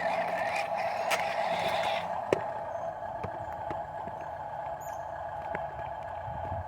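Dump truck at work: a steady mechanical whine with a rattle through the first two seconds, then scattered clicks and knocks, one sharp knock about two seconds in.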